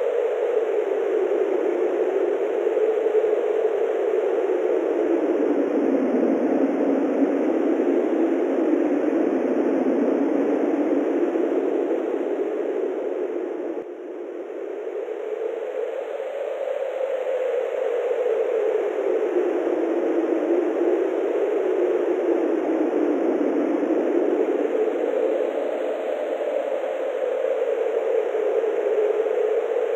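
Steady wind whose pitch slowly rises and falls in long swells, with a short lull about halfway through.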